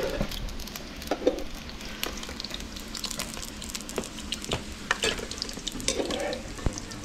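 Sliced vegetables sizzling in hot oil in a metal pan, with the clinks and scrapes of a metal ladle turning them every second or so.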